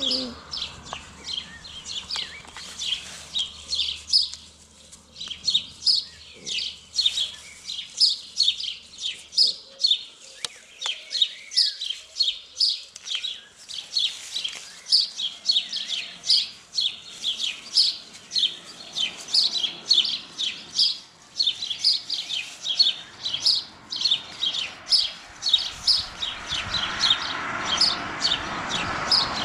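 A small bird chirping over and over, short high chirps about twice a second. A faint rushing noise builds near the end.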